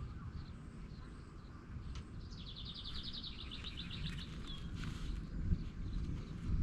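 A songbird sings a rapid trill of evenly repeated high notes for about two seconds, over a steady low rumble.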